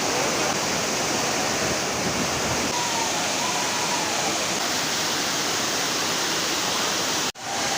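Waterfall pouring: a steady, even rush of falling water, briefly cutting out for a split second near the end.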